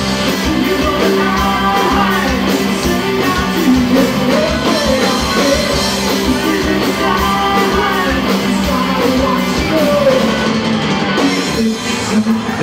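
Rock band playing live and loud, with electric guitar and singing; the music thins out about a second before the end.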